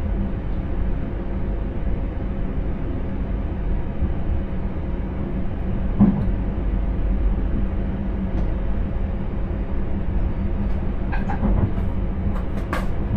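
Steady low rumble and hum of an intercity train running, heard from inside the driver's cab, with a single knock about six seconds in and a few short clicks near the end.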